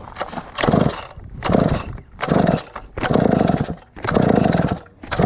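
Stihl 051 two-stroke chainsaw engine revved from idle in about six short throttle blips, each under a second. Its exhaust is very noisy: the muffler is paper thin and needs fixing.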